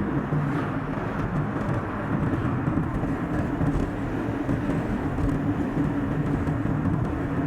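Car on the move: steady engine and tyre noise, with a steady hum running through it, played back at double speed.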